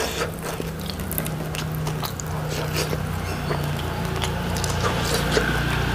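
Close-miked chewing of fried fish, with small clicks and crackles as fingers pull the flesh off the bones, over a steady low hum.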